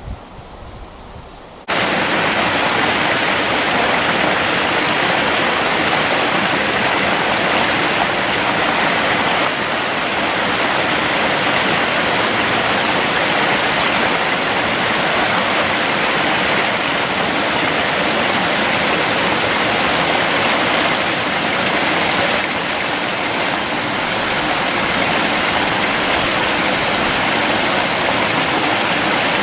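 Creek water rushing and splashing in a steady, loud wash of noise. It cuts in abruptly about two seconds in, after a quieter moment.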